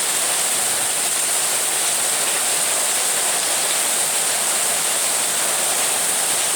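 Heavy rain pouring down in a steady, even hiss that does not let up.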